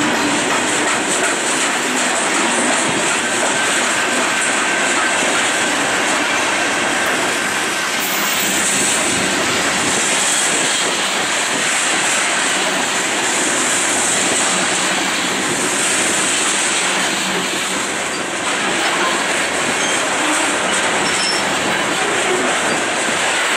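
Coal train's steel gondola cars rolling past on the rails with steady wheel noise, and a high wheel squeal that swells and fades several times from about a third of the way in.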